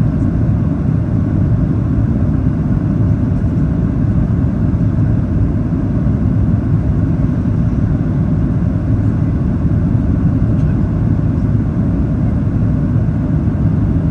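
Steady low rumble inside the cabin of a Boeing 737-800 on final approach: engine and airflow noise, even and unbroken.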